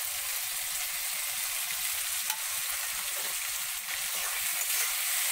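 Diced potatoes, chickpeas and tomato sizzling in mustard oil in a wok-shaped pan, a steady frying hiss.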